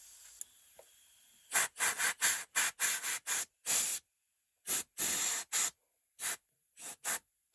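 A run of about a dozen short hissing spurts of spray, each a fraction of a second long, with silent gaps between them, starting about a second and a half in.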